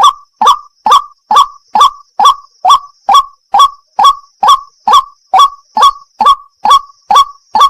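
White-breasted waterhen (wak-wak) call, a short harsh note repeated at a strictly even pace of a little over two a second.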